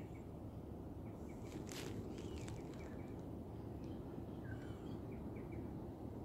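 Faint, repeated chirps of small birds over a steady low rumble of outdoor noise, with a brief rustling crackle about two seconds in.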